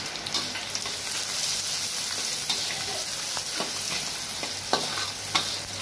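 Onions, curry leaves and ginger-garlic paste sizzling in hot oil in a stainless-steel wok, with a few sharp clicks from the steel spatula against the pan as it is stirred in the second half.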